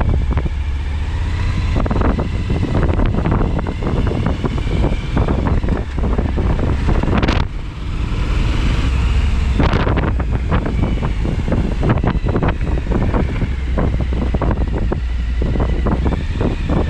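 Suzuki V-Strom 1000XT's V-twin engine running under way while riding, with wind buffeting the microphone. The noise dips briefly about halfway through.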